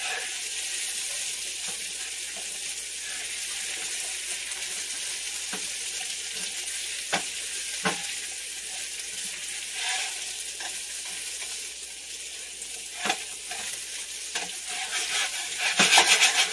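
Potatoes sizzling steadily in butter and oil in a pan, with a few sharp taps of the spoon against the pan and a quick run of stirring and scraping near the end.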